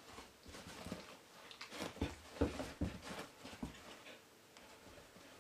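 A dog's paws and claws tapping and thumping on a hard surface as it scrambles to perch, a quick irregular run of taps and knocks that is busiest between about two and three seconds in.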